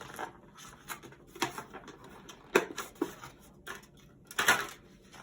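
Scattered light clicks and brief rustles of plastic bento lunch packs and their bag being handled and unpacked, with a longer rustle near the end.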